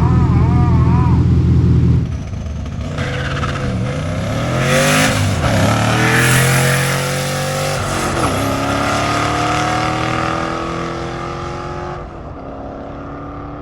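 Twin-turbocharged 2010 Ford Crown Victoria 4.6-litre V8 pulling hard through the gears of its 5-speed manual. Engine pitch climbs and drops back at shifts around the middle of the run, then climbs steadily, with a loud rush of noise partway through. It falls to a quieter steady drone near the end.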